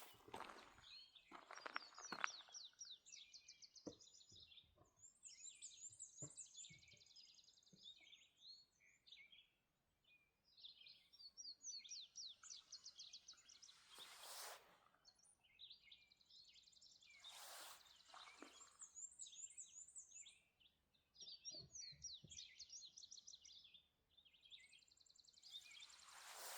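Wild songbirds singing faintly: repeated phrases of quick chirps and trills, each a few seconds long with short pauses between. A few brief rushes of noise come in among them.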